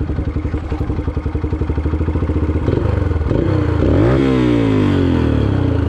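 Yamaha TT-R125 pit bike's air-cooled single-cylinder four-stroke engine running with a steady, pulsing beat, then revving up about three seconds in, its pitch falling away again over the last two seconds.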